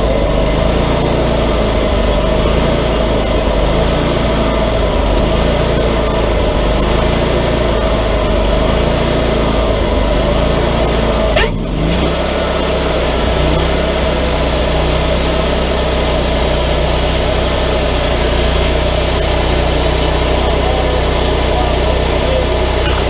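Wood-Mizer LT40 hydraulic sawmill's engine running steadily and loud throughout. A little over halfway through there is a brief drop and an abrupt change to a steadier hum.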